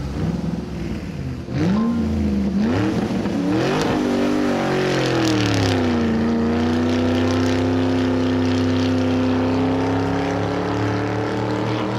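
A motor vehicle engine revving: its pitch climbs in two quick rises, then drops and settles into steady running, creeping slightly higher.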